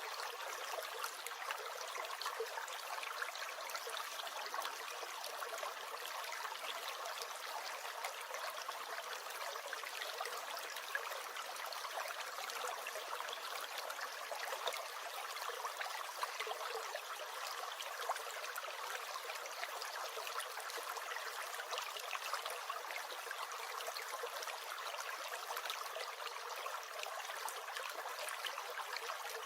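A brook gurgling and trickling, steady and even.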